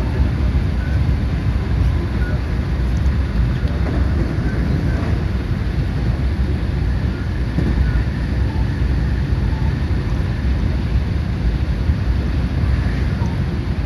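Steady running noise of a JR West 223 series 2000-subseries electric train at speed, heard from inside the passenger car: an even, low rumble of wheels on rail.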